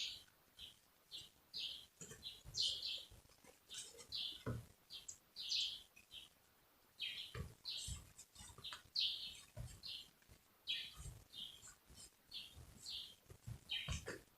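Small birds chirping: short high chirps repeating every half second or so, with a few faint low knocks in between.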